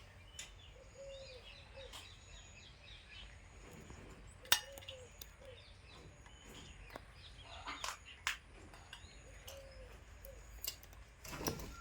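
Faint bird chirps and short calls, scattered with no steady rhythm, broken by a few sharp clicks or taps, the loudest about four and a half seconds in.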